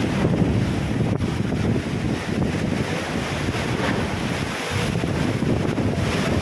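Wind buffeting the microphone over splashing sea waves, a steady rumbling rush.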